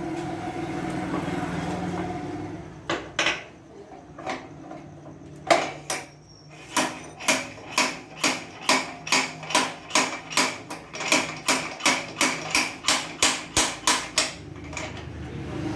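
A hammer striking repeatedly during a bike repair: a few separate blows, then a steady run of about twenty even blows, two to three a second and getting slightly quicker, which stops near the end. A low steady hum comes before the first blows.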